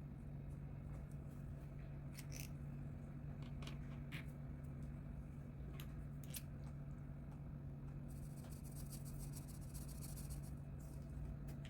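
Colouring tool scratching on paper: a few short separate strokes, then about two and a half seconds of quick continuous shading strokes near the end, over a steady low electrical hum.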